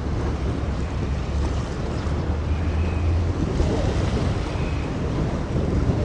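Strong wind blowing across the microphone: a steady low rumble with a rushing noise over it.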